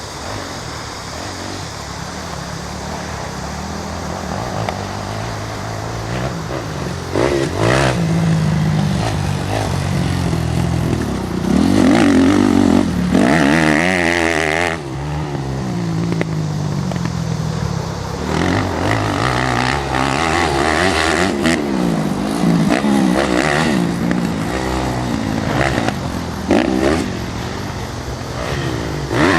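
Motocross dirt bike engines revving, their pitch rising and falling as the throttle opens and closes. They grow louder over the first several seconds, as if closing in.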